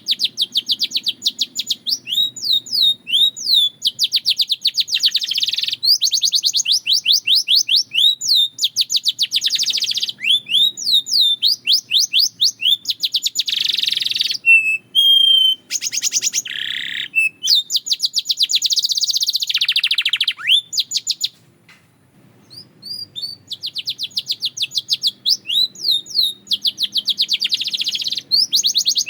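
Canary singing: long phrases of fast trills, notes repeated many times a second, with a few held whistled notes partway through and a short break about two-thirds of the way in.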